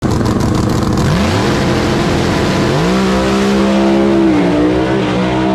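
Drag race car engine at full throttle, starting suddenly and loudly; its pitch climbs about a second in, climbs again near three seconds, then holds high.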